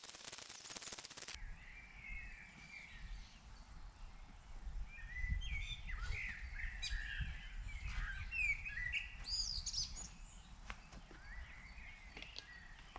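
Small birds chirping and twittering in short, scattered calls, busiest in the middle, over a low rumble. A steady hiss cuts off suddenly a little over a second in.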